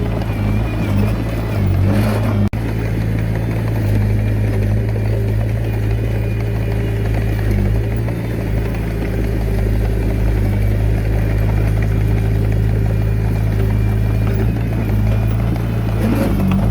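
Komatsu D21A mini bulldozer's diesel engine running steadily under load as it works, with an instant's break in the sound about two and a half seconds in.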